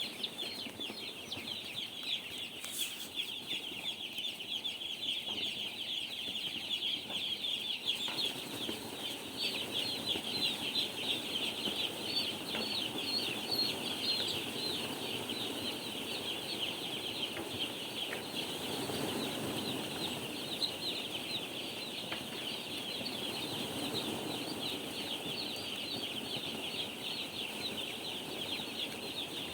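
A huge flock of two-day-old chicks peeping continuously: a dense, high chorus of overlapping chirps.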